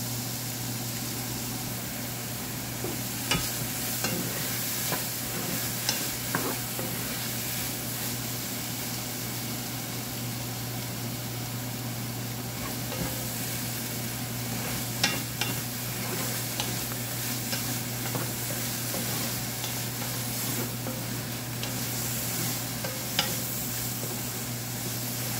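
Pineapple chunks sizzling steadily in a hot metal frying pan as their juice cooks off, stirred with a wooden spatula that scrapes and knocks on the pan now and then.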